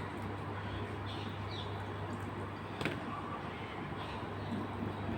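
Steady low hum under faint room noise, with a single sharp click a little before the three-second mark.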